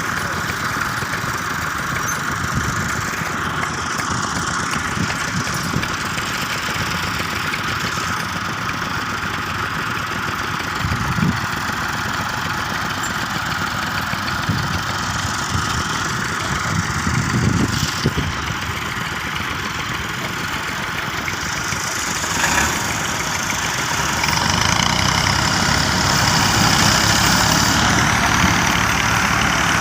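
Massey Ferguson 385 tractor's diesel engine running steadily at idle, growing louder and fuller near the end.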